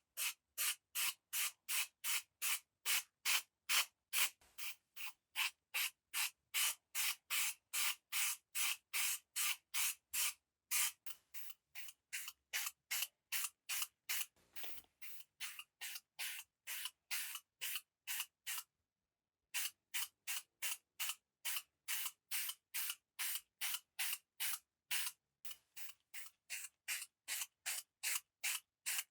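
Hand sanding: sandpaper rubbed back and forth in quick, even strokes, about three a second, with a brief pause about two-thirds of the way through.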